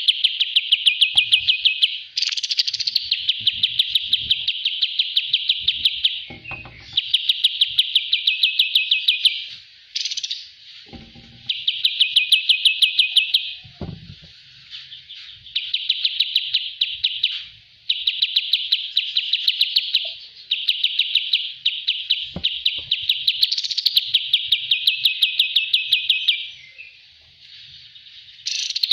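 Kapas tembak bird song: rapid, evenly pulsed trills in repeated bursts of about two seconds with short breaks between them, as used for a 'master' song-training recording.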